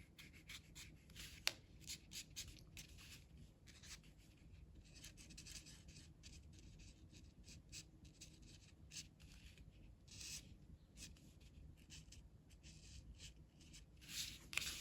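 Faint scratching of a colouring tool on paper, in quick, irregular back-and-forth strokes as an area is shaded in.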